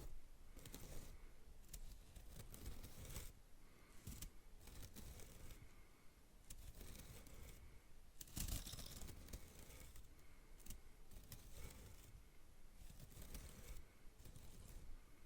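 Stiff straw bristles of a household broom (venik) rustling and scratching close to the microphone in short, irregular strokes, with one longer, louder sweep past the middle.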